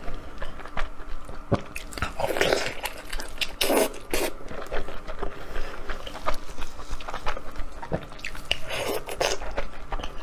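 Close-miked eating: biting and chewing saucy braised meat, with irregular wet clicks and a few longer wet, slurping noises about two, four and nine seconds in.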